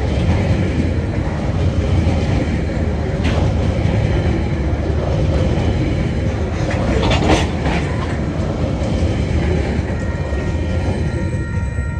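Coal hopper wagons of a freight train rolling past at about 30 km/h: a steady rumble of wheels on rail, with clanks about three seconds in and again around seven seconds. Near the end, as the last wagon goes by, the rumble fades and a steady high ringing comes in.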